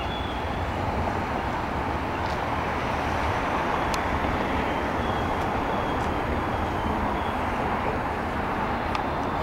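Slow freight train of loaded flatcars rolling past at walking pace: a steady rumble and clatter of wheels on rails, with a faint high whine that comes and goes and a few sharp clicks.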